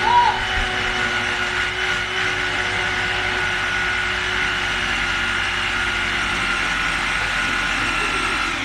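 A food processor about nine years old, its motor running steadily with a whirring whine as it whips oil and egg yolks into a thick mayonnaise emulsion.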